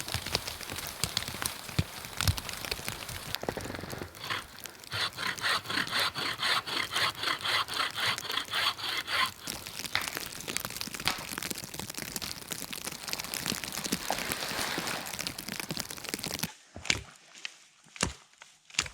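Hand saw cutting wood in quick, even strokes, about four a second, amid rustling and crackling. Near the end this gives way to a few separate knocks.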